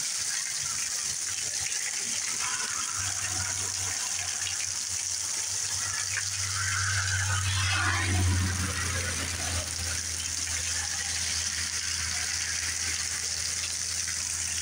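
Heavy rain pouring down in a steady hiss. A low rumble builds from about three seconds in and is loudest near the middle.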